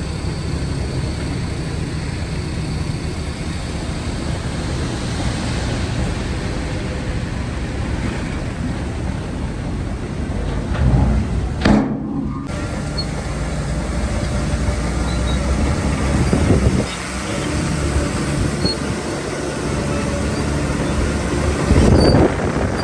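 Heavy diesel construction machinery running steadily under load, with louder surges about halfway through and again near the end.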